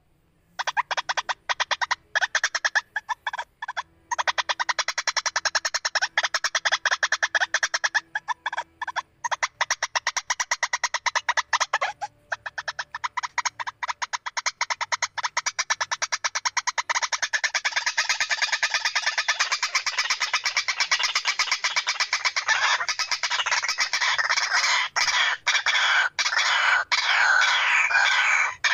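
White-breasted waterhen calling: a fast, continuous string of repeated notes, many a second, broken by brief pauses in roughly the first twelve seconds. The notes then run unbroken and grow denser and more varied toward the end.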